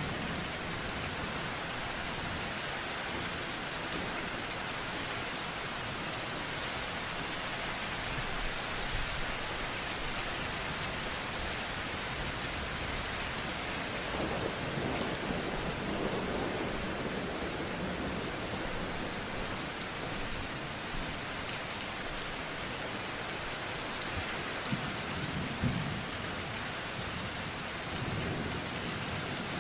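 Steady rain with low rolls of thunder, one about halfway through and another near the end.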